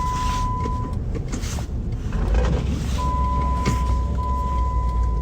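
A 2009 Jeep Commander's 5.7 Hemi V8 and tyres rumbling low and steady while driving through snow, heard from inside the cabin. A steady high electronic tone sounds for the first second and comes back about three seconds in.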